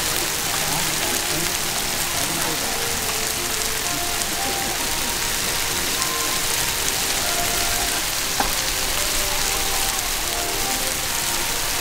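Pot stickers sizzling steadily as they fry in a hot pan, a dense rain-like hiss. A single sharp click sounds about eight seconds in, with faint voices and music behind.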